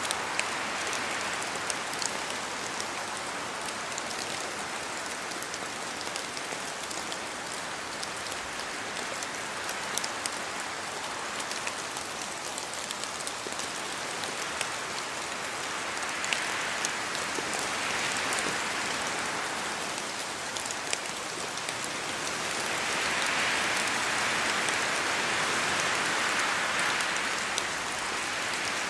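Steady rain falling through forest trees, with drops dripping off the leaves, heard as an even hiss dotted with sharp single drop hits. The hiss swells louder twice in the second half.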